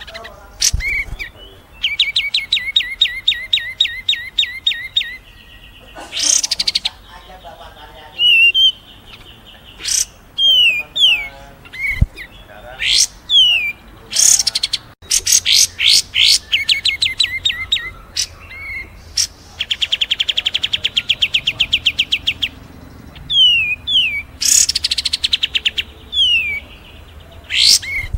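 Songbirds singing loudly in a masteran mix of kapas tembak, cililin and fighting Eurasian tree sparrow ('gereja tarung') calls: rapid series of repeated sharp notes, fast trills and short down-slurred whistles, one after another with brief gaps.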